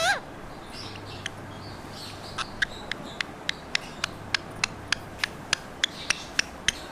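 A pet parrot's short chirp at the very start, then a regular run of sharp clicks, about three a second, from about two and a half seconds in.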